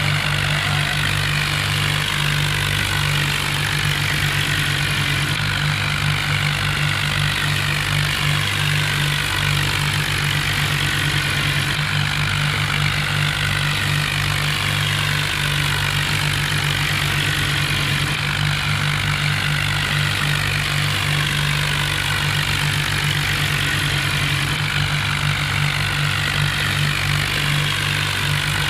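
Diesel tractor engine running steadily, with a constant hiss over it.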